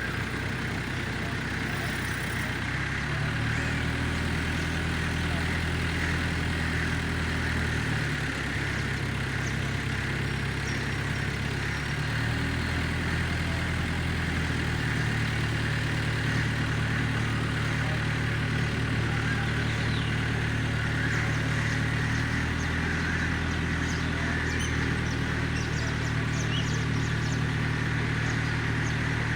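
A vehicle engine running steadily, its speed stepping up and down several times.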